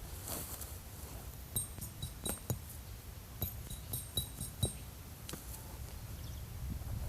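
A series of light knocks and small metallic clinks, some with a short ring, over a low rumble.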